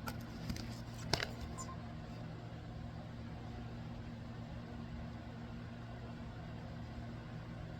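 A steady low mechanical hum, with a few sharp clicks in the first second and a half, the loudest about a second in.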